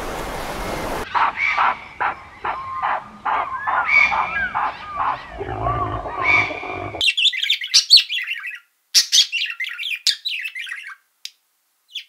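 Surf-like water hiss for about a second, then a run of bird calls. First chirping calls with rising and falling pitch, then, from about seven seconds in, high squawking calls broken by short gaps.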